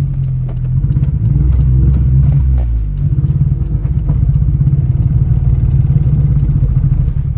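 Suzuki Alto Works' small turbocharged three-cylinder engine misfiring badly under load, sputtering and unable to rev, on the verge of stalling. Its pitch sags about two seconds in, then picks back up about a second later. The owner suspects water sprayed around the turbo during washing.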